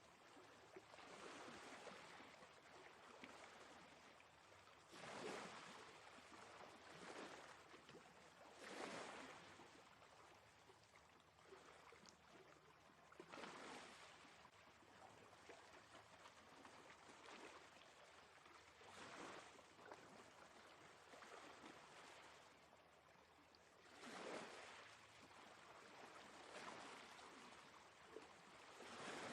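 Faint sea waves washing onto shore, a steady hiss of surf that swells as a wave breaks about every four to five seconds.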